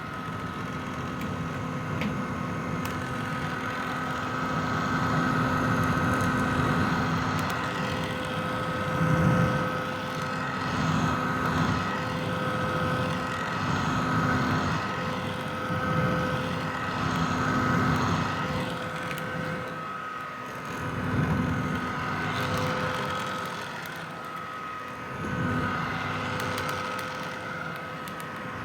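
Red vintage hair dryer running: a steady motor whine over the rush of blown air, swelling and fading every two to three seconds.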